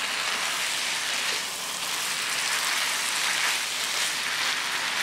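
Shredded tuna in chilli sambal, with petai beans, sizzling in a hot wok as it is stir-fried and turned with a spatula: a steady frying hiss.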